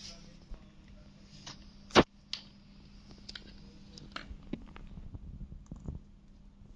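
Green ringneck parrot handling a map: scattered clicks and short rustles, with one sharp, loud crack about two seconds in.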